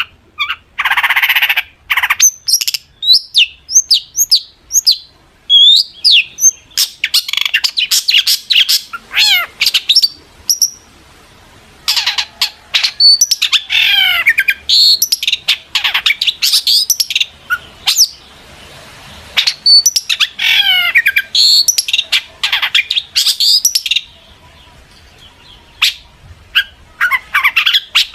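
Long-tailed shrike (cendet) singing a fast, varied chattering song of quick chirps and sweeping whistled notes with harsh rasping calls. It sings in bouts separated by a few short pauses.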